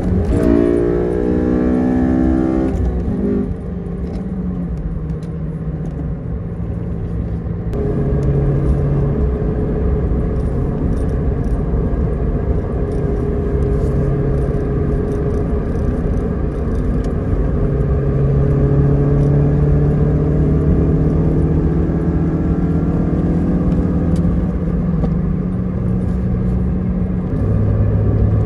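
2006 Honda Civic Si's 2.0-litre four-cylinder engine driving the car down the road. Its note rises as the car accelerates in the first few seconds, then settles to a steadier drive with slow climbs in pitch. The pitch drops near the end, as at an upshift.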